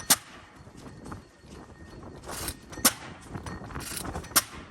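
Three sharp knocks, unevenly spaced, over low background noise.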